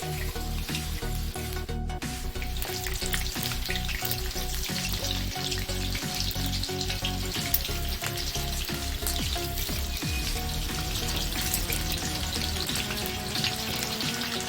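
Egg-and-cornflour-battered chicken lollipops deep-frying in hot oil: a steady sizzle dense with small crackles and pops.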